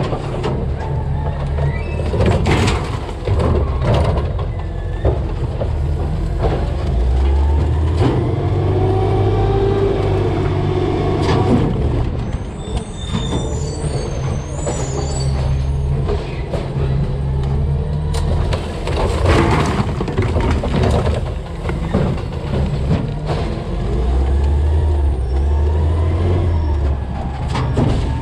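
A DaDee Scorpion rear-loading garbage truck at work, its Peterbilt 320 CNG engine running and stepping up and down in speed as the hydraulic packer cycles. Sharp knocks and clatters of trash in the hopper come every few seconds, and a wavering whine from the packer comes near the middle.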